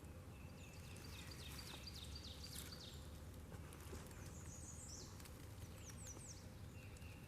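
Faint small-bird calls: a run of quick chirps in the first few seconds, then a few high, falling notes, over a low steady background hiss.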